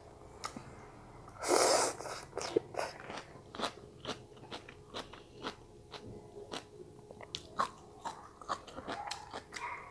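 Close-miked crunchy chewing and biting of stir-fried Chinese celery stalks and chicken gizzard, a run of crisp crunches. There is one brief, louder rushing sound about a second and a half in.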